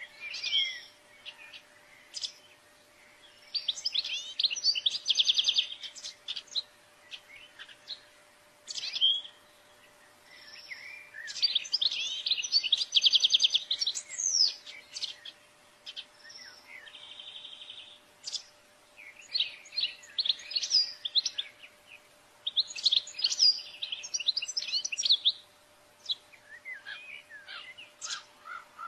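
European goldfinch singing: repeated bursts of rapid, twittering song with fast trills, each phrase a second or two long with short pauses between, over a faint steady hum.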